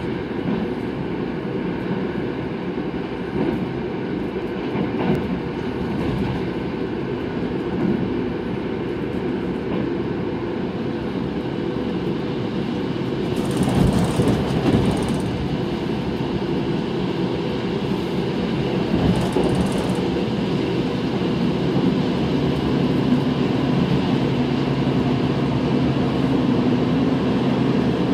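Passenger train running at speed, heard from inside the carriage: a steady low rumble of wheels on the track, briefly louder with added hiss about halfway through.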